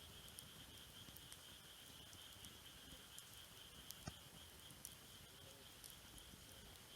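A wood campfire crackling faintly, with scattered small pops and one sharper pop about four seconds in, over a steady high insect trill.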